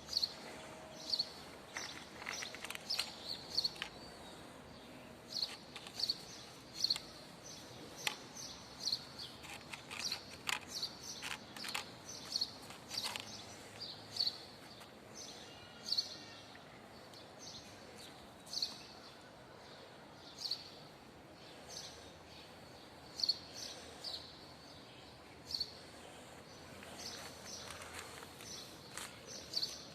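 Small birds chirping outdoors: short high chirps repeating irregularly, with scattered sharp clicks.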